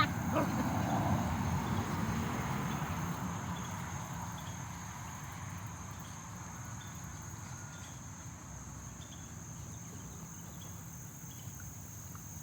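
Outdoor ambience: insects buzzing steadily, with faint short chirps repeating a little more often than once a second in the second half. A rushing noise fades away over the first few seconds.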